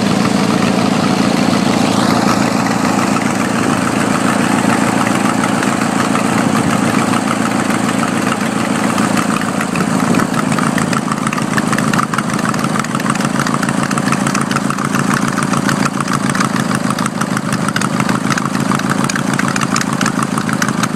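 18 hp Briggs & Stratton twin-cylinder engine running steadily.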